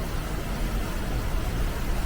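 Steady rush of flowing water, a continuous even hiss over a deep rumble.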